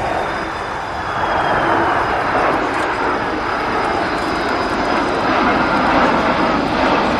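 Boeing C-17 Globemaster III jet transport flying past, its four turbofan engines a steady loud rush of jet noise. A faint whine falls in pitch over the first couple of seconds.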